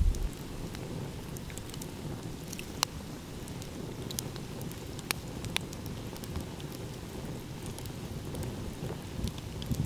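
Wood fire crackling with scattered sharp pops, the loudest about three and five seconds in, over a steady low rumble of ocean waves.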